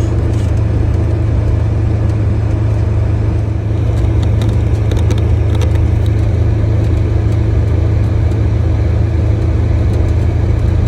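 Polaris Ranger Crew 1000 XP side-by-side driving along a trail: its engine and drivetrain make a steady low rumble, with a few light clicks about four to six seconds in.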